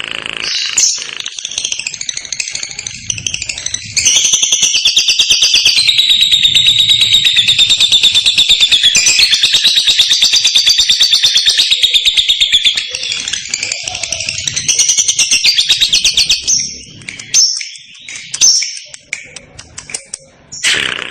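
Lovebird's 'ngekek' song: a long, clear, very rapid chattering trill that starts about four seconds in and runs for some nine seconds, with short scattered chirps before and after it.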